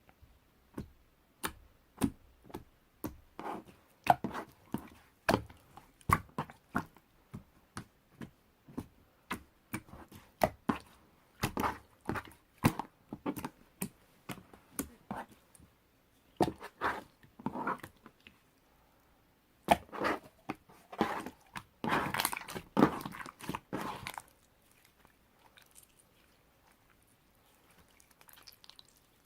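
Marbled slime being squished, poked and folded by hand, giving a run of sharp wet clicks and pops. There is a dense flurry of pops a little past the middle, and it goes faint for the last few seconds.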